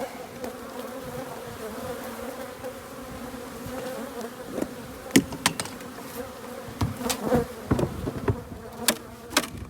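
Honeybees buzzing around an open hive, a steady low hum. From about halfway in, a series of sharp clicks and knocks joins it, the loudest a little past the middle.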